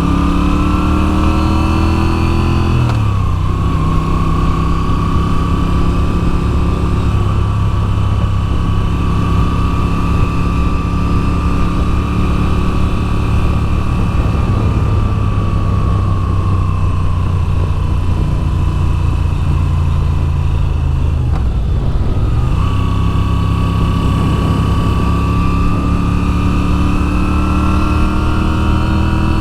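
Moto Guzzi V7 850 air-cooled V-twin engine under way, revving up and then dropping suddenly about three seconds in as it shifts gear. Revs hold and ease off through the middle, dip once more a little past twenty seconds, then climb steadily again near the end.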